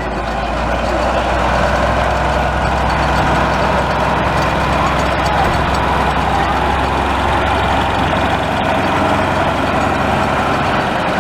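Narrow-gauge diesel locomotive's engine running steadily, swelling in the first two seconds and then holding at a constant heavy drone.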